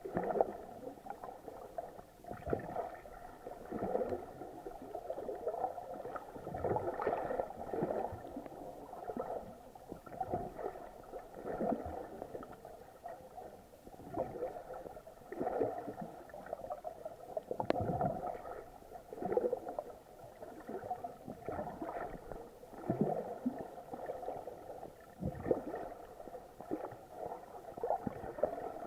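Muffled water sound of snorkeling, heard with the camera underwater or at the surface: irregular gurgling, sloshing surges about every second, over a faint steady hum.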